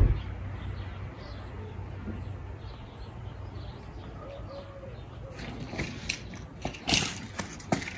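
Quiet garden ambience with faint bird chirps over a low steady hum, then a few short sharp knocks near the end.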